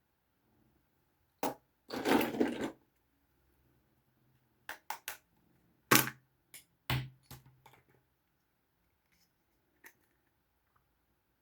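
Small plastic toys being handled: a single click, a short crinkly rustle, then a string of sharp clicks and taps, the loudest about six seconds in.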